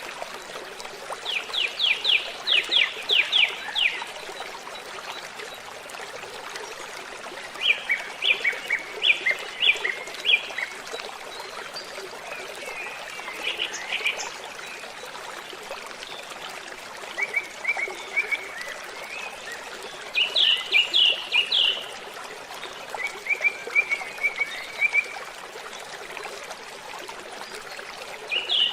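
Waterfall rushing steadily, with a songbird singing short phrases of rapid, repeated high chirping notes, about six or seven songs a few seconds apart.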